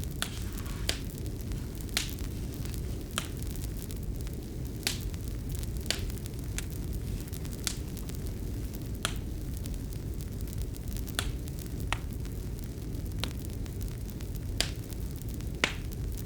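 Wood fire burning in a fireplace: a steady low rush with sharp, irregular crackles and pops, about one a second.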